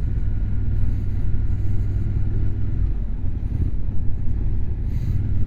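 Motorcycle engine running steadily at low revs under a deep rumble of road and wind noise.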